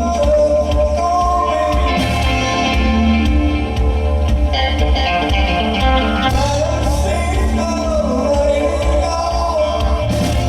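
Live rock band playing, with a singing voice or lead line over steady bass and drums.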